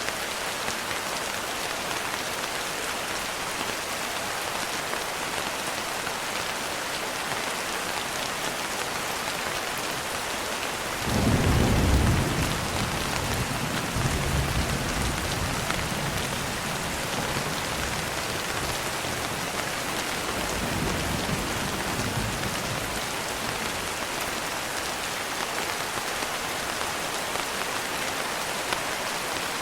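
Steady rain falling, with a roll of thunder about eleven seconds in: loudest for a couple of seconds, then rumbling on more faintly, with a softer rumble again near twenty seconds.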